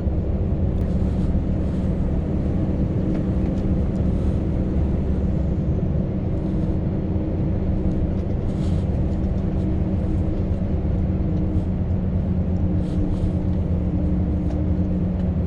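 Scania V8 truck engine running steadily under way: a constant low drone with road noise and a few faint light rattles.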